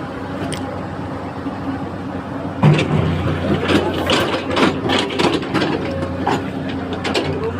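An engine running steadily, with a run of irregular clattering knocks starting a little under three seconds in.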